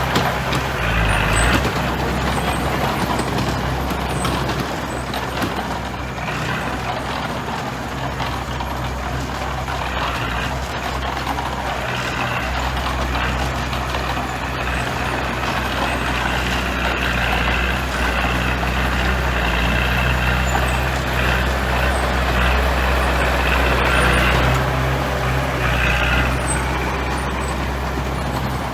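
Heavy diesel construction machinery running steadily, a deep engine rumble with a higher squeal or hiss that comes and goes several times.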